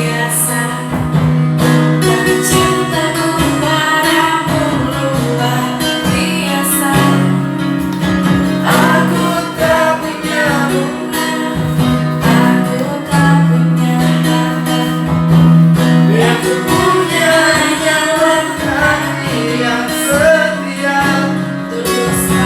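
Karaoke song with acoustic guitar and a singing voice, played loud over a karaoke sound system.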